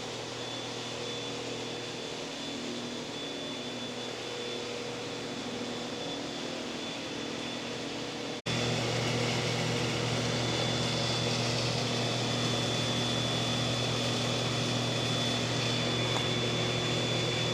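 Steady mechanical room hum, like building ventilation, with a faint high steady whine. About eight and a half seconds in, an abrupt cut brings a louder, lower hum.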